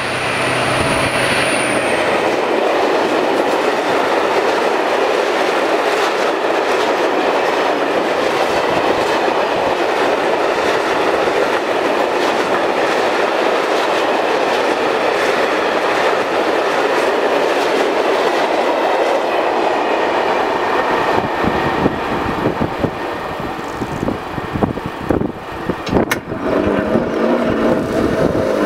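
Freight train of covered hopper wagons passing close by at speed: a steady rumble and rattle of steel wheels on rail for about twenty seconds, breaking into separate clacks as the last wagons go by near the end.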